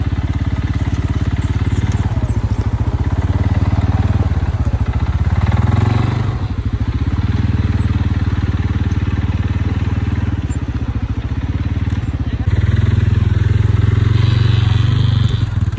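Quad bike (ATV) engine running while being ridden, its level easing off and picking up again a couple of times and getting louder about twelve seconds in.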